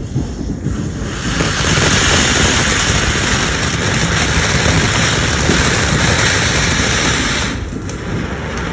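A firework hissing steadily as it burns, with no bangs. The hiss starts about a second in and cuts off sharply near the end.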